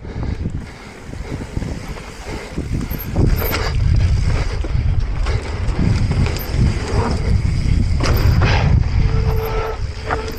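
Wind rushing over an action camera's microphone as a mountain bike rolls fast down a dirt trail, with the rumble of the tyres and a few knocks from the bike; it grows much louder about three seconds in and eases near the end.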